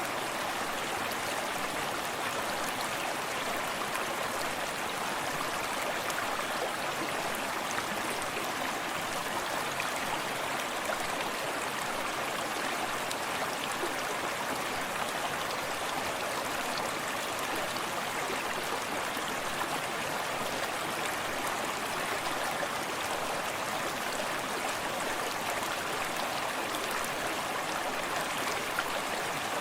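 Forest creek running steadily over stones, with close gentle splashing and lapping water and a constant rushing flow.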